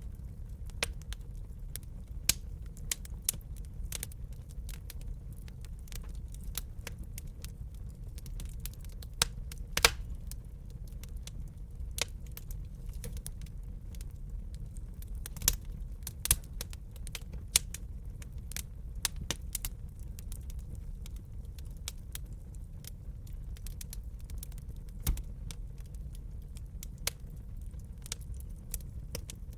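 Wood fire crackling in a fireplace: irregular sharp pops and snaps over a steady low rumble of the flames, with the loudest pop about ten seconds in.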